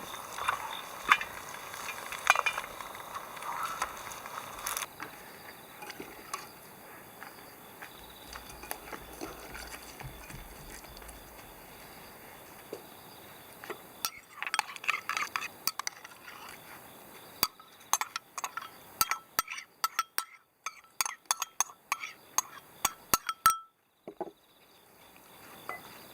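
Dishes and utensils clinking and tapping, with a dense run of short sharp clinks in the second half.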